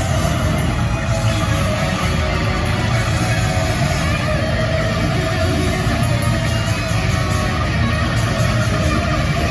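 Live heavy metal band playing loud, with distorted electric guitars in a dense, unbroken wall of sound.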